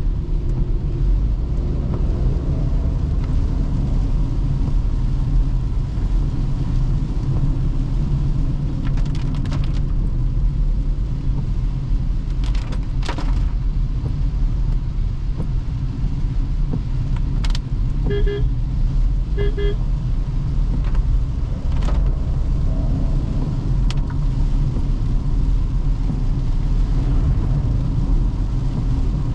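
Toyota Hyryder hybrid driving on a wet road, a steady low rumble of road and tyre noise. A car horn gives two short toots about 18 and 19.5 seconds in, and a few sharp clicks come along the way.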